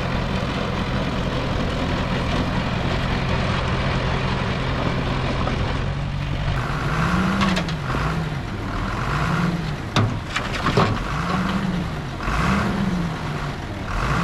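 Heavy earthmoving machinery running at work: a steady diesel engine drone that, about halfway through, turns into an engine note rising and falling again and again, with two sharp knocks near the ten-second mark.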